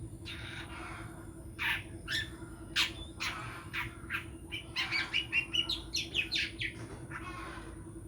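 Long-tailed shrike (cendet) singing: a few scattered sharp calls, then a quick run of chirps from about four and a half to seven seconds in. A steady low hum runs underneath.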